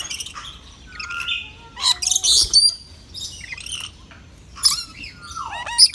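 Several birds chirping and calling: a busy mix of short high chirps and sliding whistled calls, with the loudest call near the end.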